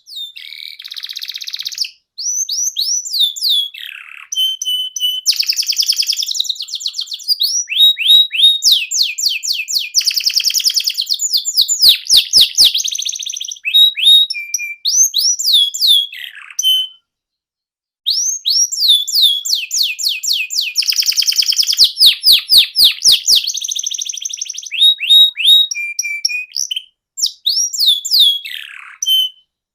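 Domestic canary singing a long song of rapid trills and quick sweeping whistles. The song breaks off for about a second partway through, then starts up again.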